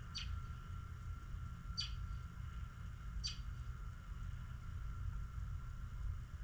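A small bird chirping three times, short high chirps about a second and a half apart, over a steady low rumble.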